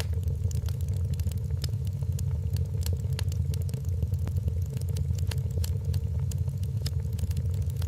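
Wood fire in a fireplace crackling, with many sharp, irregular pops several times a second over a steady low rumble.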